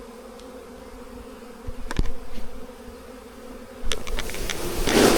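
Many honeybees buzzing in a steady, low drone. Two sharp knocks come about two and four seconds in, and a rush of noise swells near the end.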